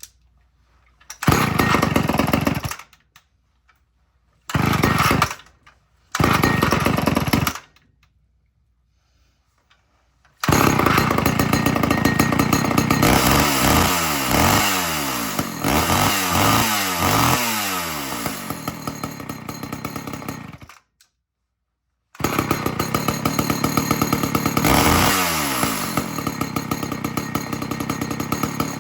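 Two-stroke chainsaw firing three times in short bursts that each die out, then starting and running, revved up and down several times. It shuts off about 21 seconds in, then restarts about a second later and keeps running.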